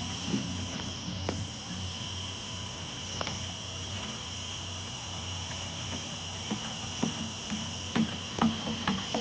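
Crickets chirping steadily, with scattered light knocks and taps, more of them toward the end.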